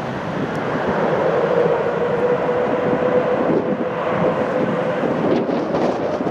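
Jet airliner engines running as a plane passes, a steady rush with a held whine that swells about a second in and fades near the end, with wind buffeting the microphone.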